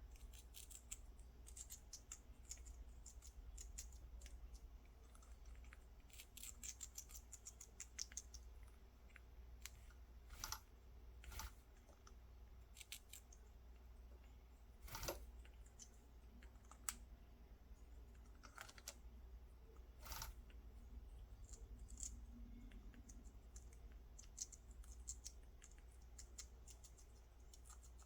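Faint, scattered small clicks and taps, some in quick rattling clusters, with a few sharper single ticks.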